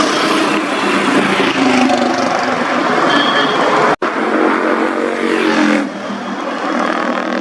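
Superbike engines and exhausts running loud on the road, cut off abruptly by an edit about four seconds in; after the cut a steady engine note carries on, then drops in level near the end.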